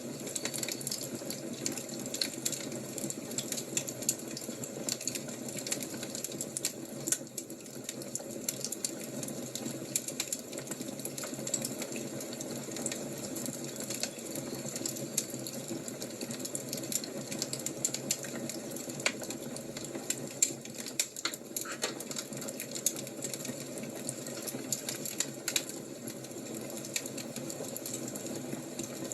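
Fire crackling: a steady hiss with frequent sharp pops and snaps scattered irregularly.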